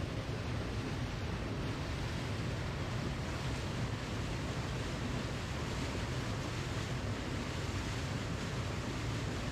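Steady rushing noise of a waterfall, even and unbroken, heaviest in the low end.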